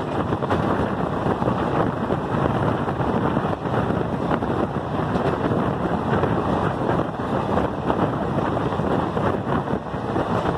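Train running at speed, heard from a window on board: a steady rumble from the running gear mixed with wind buffeting the microphone.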